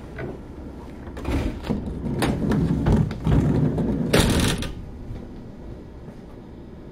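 Interior sound of a Kintetsu 6600 series field-chopper electric train: a low hum, then a few seconds of clattering and knocking with a short loud rush of noise about four seconds in, before it settles back to the hum.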